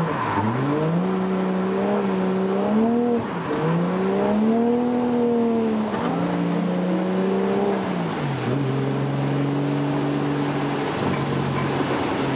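Toyota JZX100's engine revving up and down several times under load, then holding a steady note from about eight and a half seconds in.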